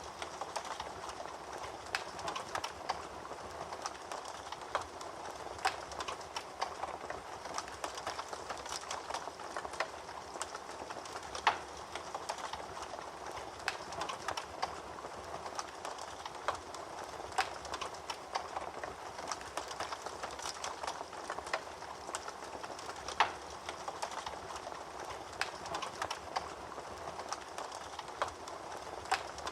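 Wood fire burning in a fireplace: steady crackling with irregular sharp pops, a couple of them louder.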